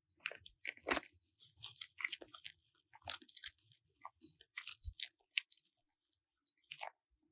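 An animal chewing crunchy food: a string of quick, irregular crunches.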